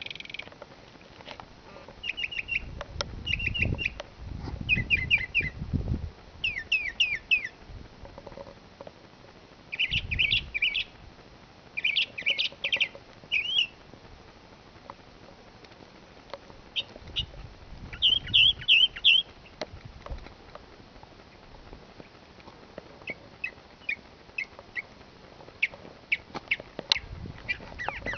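A bird calling loudly in bursts of three to six quick, sharp, down-slurred notes, repeated every few seconds with pauses between, over some low rumbling in the background.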